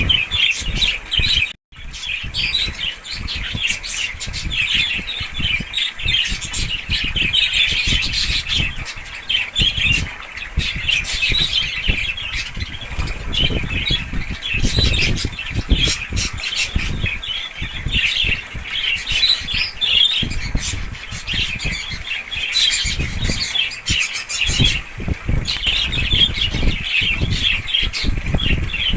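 A flock of small caged birds chattering and squawking nonstop, with wings flapping. The sound cuts out briefly about a second and a half in.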